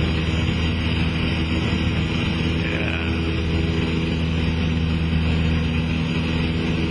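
Cessna 172SP Skyhawk's four-cylinder Lycoming engine and propeller droning steadily in flight, with power set for a 500 ft/min climb.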